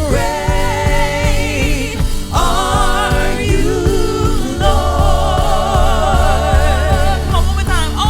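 Gospel worship song played by a worship band, with singers holding long, wavering notes over a steady bass line.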